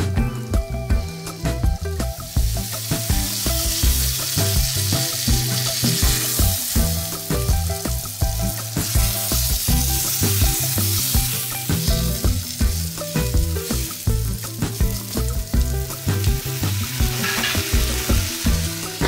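Flour-dredged chicken breasts sizzling as they fry in oil in a frying pan, the sizzle rising about two seconds in, over background music with a steady beat.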